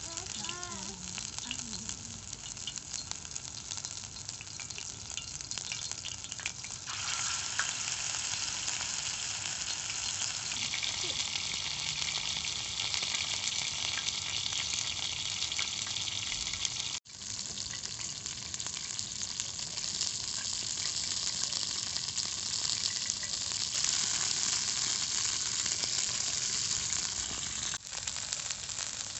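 Minced turkey kebab sizzling as it fries in a pan: a steady, dense frying hiss that breaks off briefly twice.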